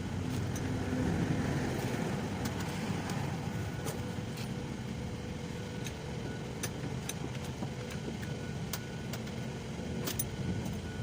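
Steady low rumble of a running engine, with a few sharp light clicks scattered through it.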